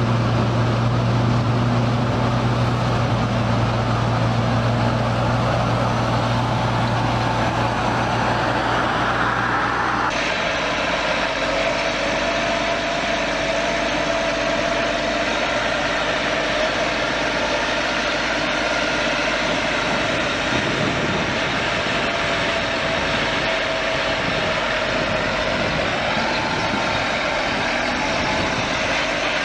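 Heavy agricultural machinery running steadily. About ten seconds in the sound changes abruptly to a different machine with a higher-pitched whine.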